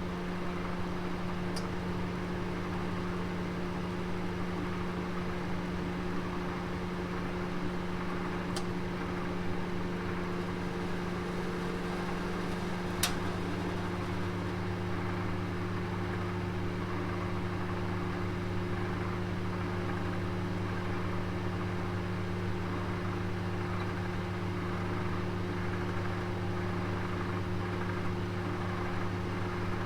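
Oven running with a roast inside: a steady hum and whir with a few faint ticks, and a sharper click about 13 seconds in, after which a deeper hum joins.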